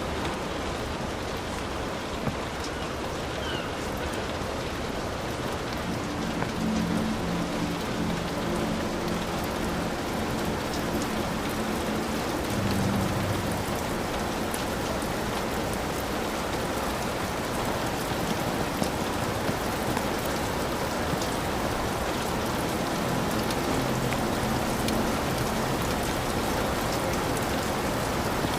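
Heavy rain falling steadily, with many individual drops ticking through the even hiss of the downpour.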